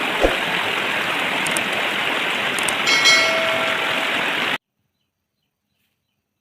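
A loud, steady rushing noise with a short thump near the start and a brief high tone about three seconds in, cutting off abruptly after about four and a half seconds.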